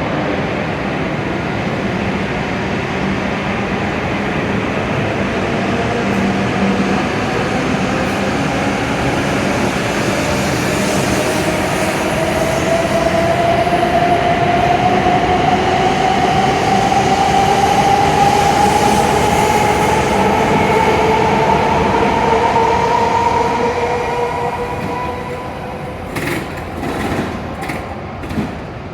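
W7-series shinkansen pulling away from the platform, its traction motors giving a rising electric whine as it accelerates over a steady rumble of wheels on rail. The sound fades over the last few seconds, with a few clicks near the end.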